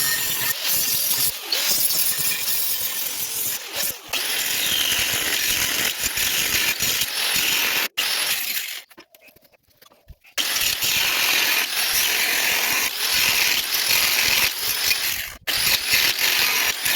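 Wire-feed welder arc crackling in long runs, stopping for about a second and a half near the middle and briefly a couple of other times, as a sleeve of round steel stock is welded onto a steel rod.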